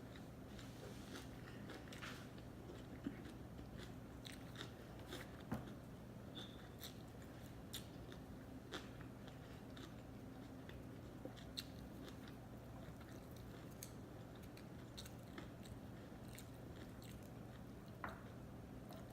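Close-miked chewing of sushi: soft wet clicks and smacks from the mouth, irregular throughout, with a few louder clicks about three and five seconds in.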